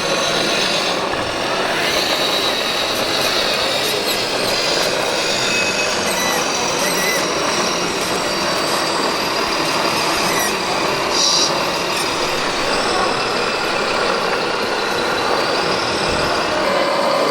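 Radio-controlled scale construction machines running: a steady mechanical whir with faint high whining tones.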